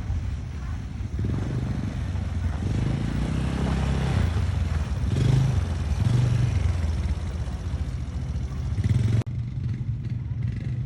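ATV engines running, the engine note rising and falling as the quads ride off. About nine seconds in, the sound cuts abruptly to a quieter engine.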